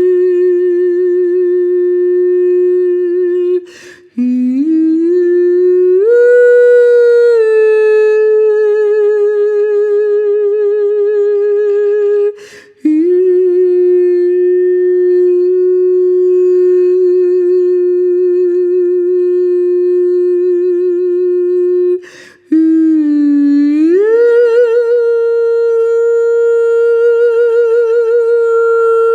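A solo voice humming long, sustained notes with a slow vibrato, pausing for breath three times. After the first and third breaths it slides up to a higher held note.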